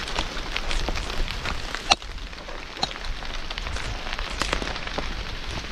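Heavy rain falling steadily, with scattered sharp taps of drops striking close by, the loudest about two seconds in.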